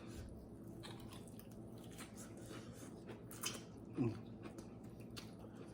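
Close-up eating sounds: faint chewing and soft mouth clicks, with a few sharper crisp ticks, as steamed fish is eaten. A brief low voiced sound comes about four seconds in.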